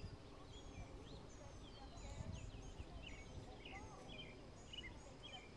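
Faint chorus of many small birds chirping and whistling, their calls overlapping, over a low steady background rumble.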